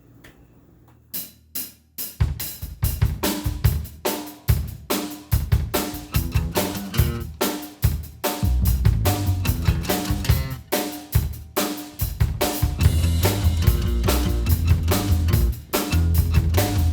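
Instrumental intro of a rock song, with no vocals. After a moment of quiet and a few drum hits, a full drum kit sets into a steady beat with bass and other pitched instruments. The band comes in heavier and louder about halfway through.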